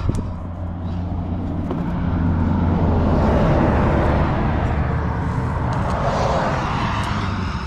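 A vehicle passing on the highway, its tyre and engine noise building over a few seconds, peaking midway and fading away, over a steady low engine hum.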